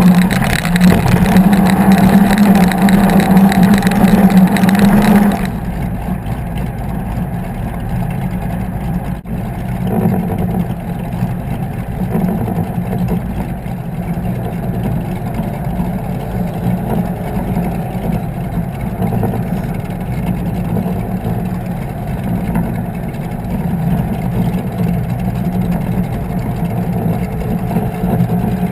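36 Skater catamaran powerboat's engines running steadily underway, with a strong steady engine tone and a rushing hiss. About five seconds in the sound drops sharply in level and the hiss falls away, then the engines run on steadily and more quietly.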